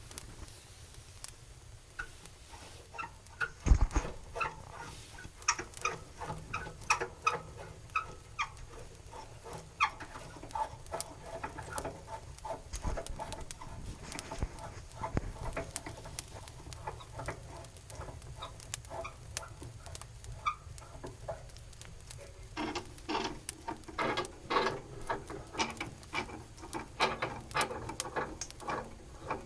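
Kindling and firewood crackling in a wood stove as the fire takes, irregular snaps and pops that grow thicker near the end. A single low thump about four seconds in.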